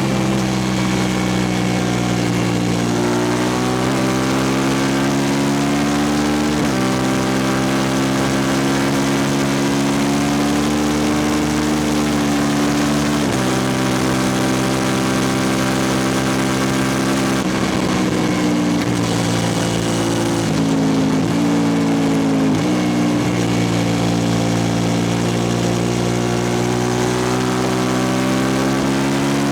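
2003 Suzuki SV650S V-twin running through an open Lextek exhaust with no dB killer, under way. The engine note holds steady or climbs slowly, then drops abruptly about five times, as at gear changes.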